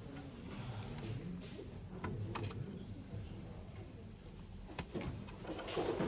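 Scattered light clicks and taps, about half a dozen over several seconds, from parts and tools being handled while a blood gas analyzer is taken apart.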